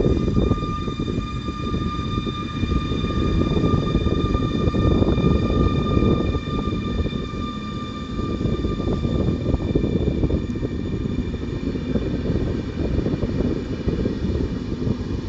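Train running through a railway station: a steady, heavy low rumble with a high, even whine over it that fades out about two-thirds of the way through.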